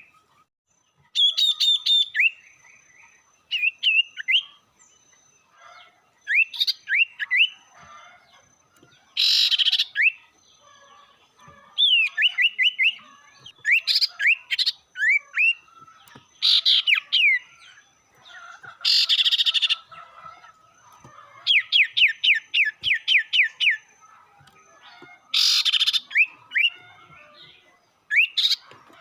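Sirtu bird song recording used as a lure: repeated phrases of quick rising whistled notes, broken by a loud harsh rasping call about every six to ten seconds.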